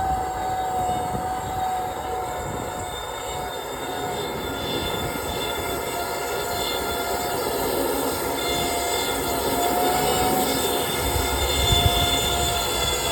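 Dryer-vent cleaning equipment running continuously: a steady whine that sags slightly in pitch over a loud rush of air.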